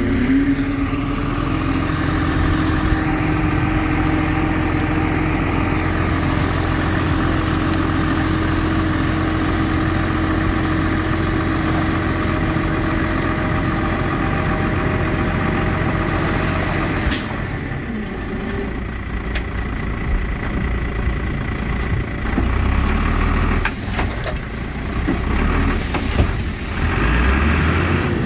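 Heavy diesel engine of earthmoving equipment running steadily with a droning tone. About seventeen seconds in, a sharp click is followed by a lower, more uneven engine sound.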